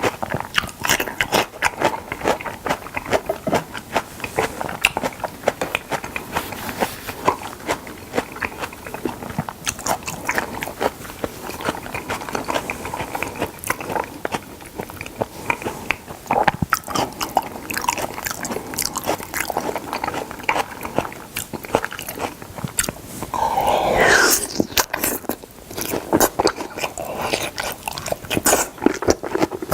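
Close-miked chewing and biting of salmon: a steady run of short, wet mouth clicks and smacks. One louder, longer mouth sound comes near the end.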